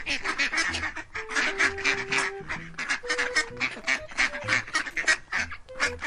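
Domestic ducks quacking in quick, unbroken runs, several calls a second.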